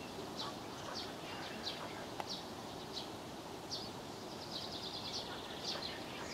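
Small birds chirping: short, high, falling calls about every half second, with a quick trill about four and a half seconds in, over a steady outdoor background hiss. One sharp click about two seconds in.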